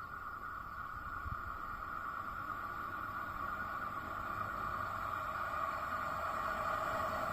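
Train approaching on the line: a steady high hum, with a low rumble beneath, growing slowly louder.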